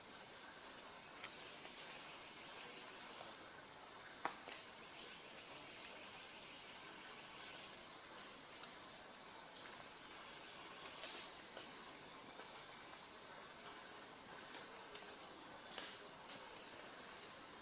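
Steady high-pitched drone of an insect chorus, with a few faint clicks scattered through it.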